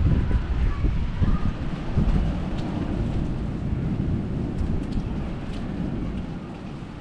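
Thunder rumbling low and slowly dying away, over steady rain.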